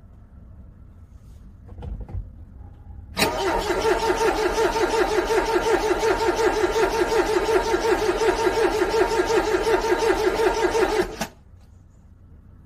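Car engine being cranked by its starter in freezing cold for about eight seconds with an even, rapid pulsing, failing to catch, then cutting off abruptly. A short thump comes just before the cranking starts.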